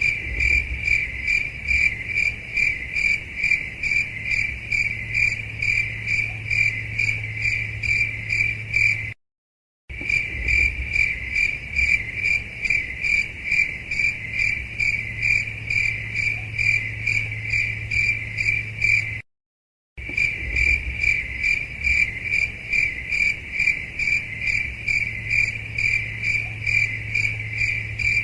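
Cricket chirping in a fast, even pulse of about four to five chirps a second over a low steady hum. The recording cuts out briefly twice and starts again, looped.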